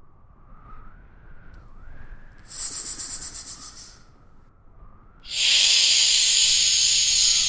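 Snake hissing twice: a shorter hiss about two and a half seconds in that fades away, then a longer, louder, steady hiss starting about five seconds in.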